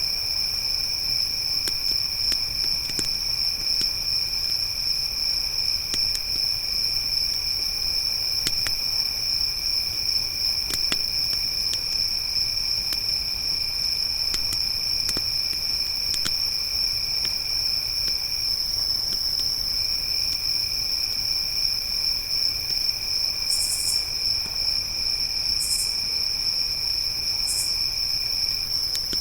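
Crickets trilling in a steady, unbroken chorus, with a second, lower insect trill underneath that stops for about a second midway. A few faint crackles from a campfire come through, and three short high buzzes sound near the end.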